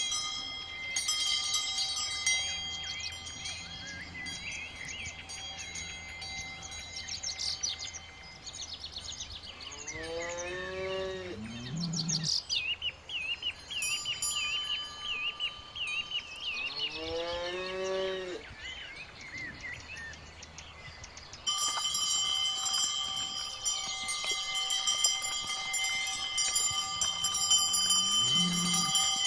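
Brown Swiss cows' collar bells ringing continually, with a cow mooing twice in the middle and once more, shorter, near the end. The bells grow louder about two-thirds of the way through.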